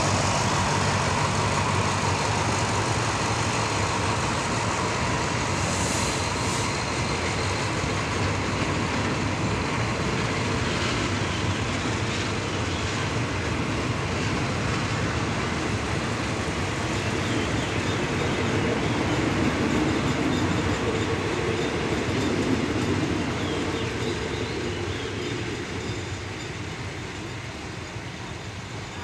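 Diesel-hauled passenger train rolling along the track, with steady wheel and carriage noise over a low engine hum that fades away over the last few seconds.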